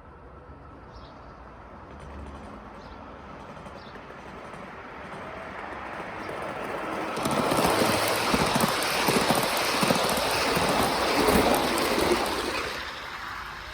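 A Spur 1 garden-railway model train hauled by a scale MÁV M62 diesel locomotive running past on outdoor track. The wheels rattle and click over the rails, growing louder as the train approaches, loudest for about five seconds from halfway in, then fading as it moves away.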